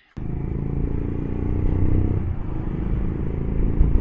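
Motorcycle riding along a road: a steady engine hum with wind and road noise, cutting in abruptly just after the start.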